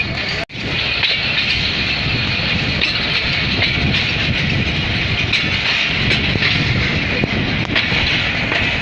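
Passenger train running along the track: a steady noise of wheels on rails with scattered faint clicks. The sound cuts out briefly about half a second in.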